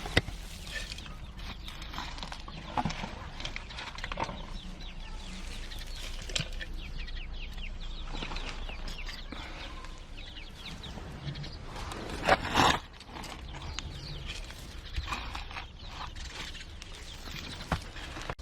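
Newly hatched domestic chicks peeping: many short, high calls one after another. A brief louder noise comes about twelve seconds in.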